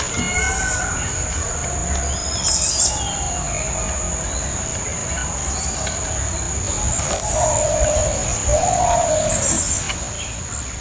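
Birds calling outdoors over a steady high-pitched drone: a quick burst of high chirps about two seconds in, then lower, warbling calls for a couple of seconds near the end.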